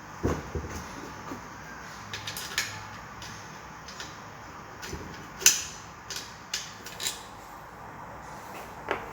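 Scattered clicks and knocks of metal ceiling-fan parts and tools being handled during assembly, the sharpest click about five and a half seconds in.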